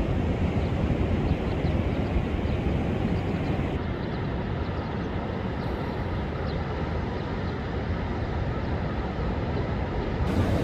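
Rough, storm-driven sea surf breaking continuously, a steady low rushing wash of waves with no pauses.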